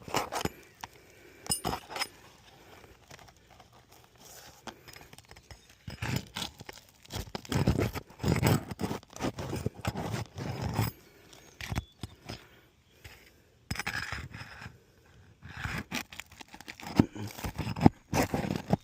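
Irregular scraping, tearing and crunching of fragile roof shingles being handled and pried during a shingle repair, with scattered clicks and a denser run of scraping around the middle.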